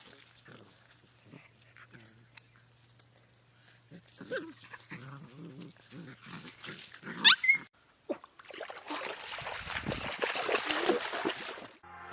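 Puppies whimpering and yelping in short pitched cries, with one loud, sharply rising squeal about seven seconds in, followed by a rough noisy stretch near the end.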